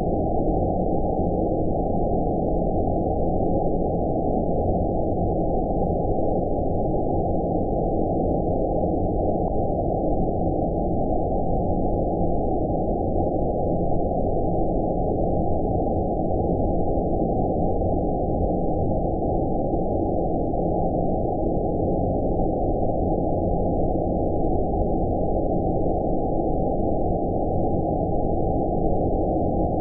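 Steady, unchanging 'outer space' sleep noise: a deep, dull hiss with all of the high end cut off, so only the low range of the noise is heard.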